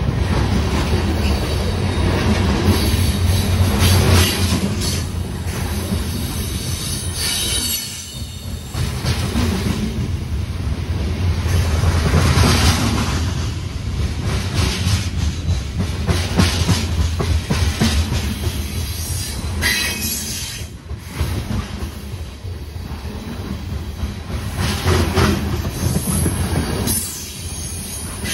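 Coal train cars rolling past close by: a steady low rumble of wheels on rail, with clicks over the rail joints and high wheel squeal that comes and goes several times.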